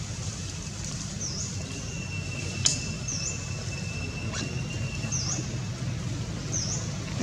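A small bird repeats a short, high chirp about every one and a half to two seconds over a low, steady rumble. A sharp click comes a little before halfway, with a fainter one later.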